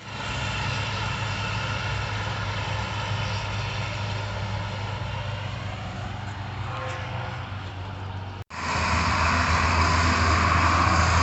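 Farm tractor engine running steadily as it travels along the road. The sound cuts out briefly about eight and a half seconds in, then comes back louder.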